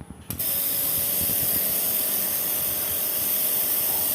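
Milking machine's vacuum pump switching on about a third of a second in, then running steadily with a loud airy hiss and a faint steady whine.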